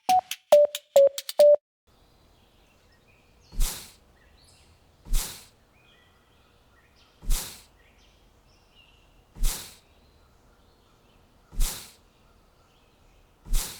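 A short electronic beeping tune stops about a second and a half in. Then comes a bird-recording background with faint scattered chirps, and a short soft whoosh about every two seconds.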